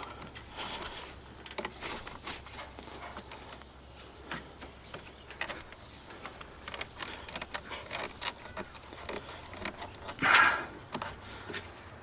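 Small scattered clicks and rustles of hands working a relay out of a car's under-hood fuse box, with one louder, brief rustling noise about ten seconds in.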